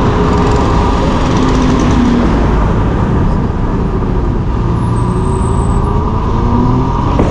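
Steady rush of wind and road noise while riding a Yatri electric motorcycle, whose motor makes almost no sound of its own, with faint engine tones from surrounding traffic.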